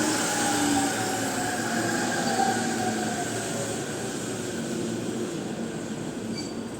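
A JR East Musashino Line electric train rolling along the platform with a dense rumble of wheels on rail. A motor whine slowly falls in pitch, and the noise eases off gradually.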